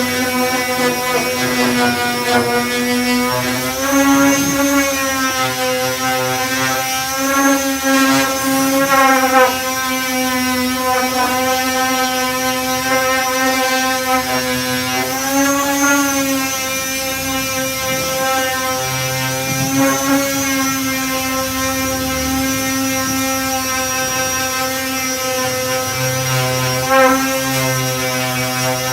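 Electric disc sander running steadily with a strong hum while sanding body filler with 240-grit discs. Its pitch dips briefly several times.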